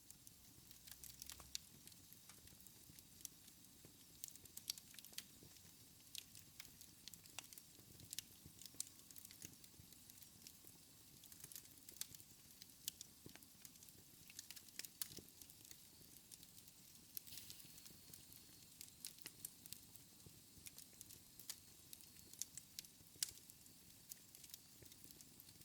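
Wood fire burning in a fireplace, crackling faintly: frequent irregular pops and snaps over a soft steady hiss.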